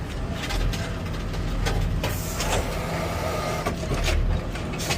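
Garbage truck engine running steadily, with several short knocks and clicks over it.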